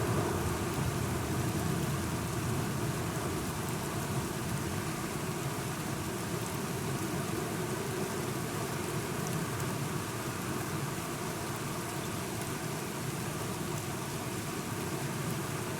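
Steady rain falling, with a low rumble underneath that is a little stronger in the first couple of seconds and then evens out.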